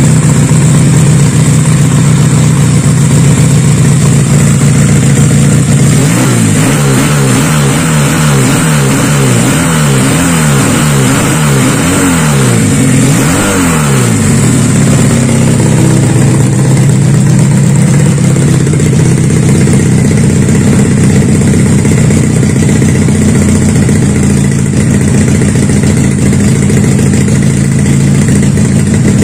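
Custom two-cylinder engine of a Supra motorcycle idling steadily. It is revved in a series of quick throttle blips for several seconds in the middle, each rising and dropping back, then settles back to idle.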